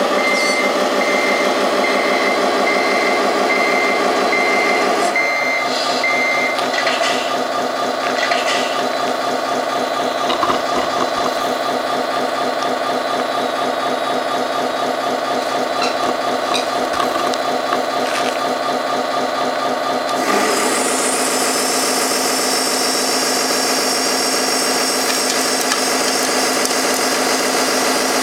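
Sound module of a Tamiya Scania 6x6 RC truck playing a running truck engine, with reversing beeps about twice a second for the first six seconds or so. The engine note shifts about five seconds in. About twenty seconds in, a brighter high whirring joins.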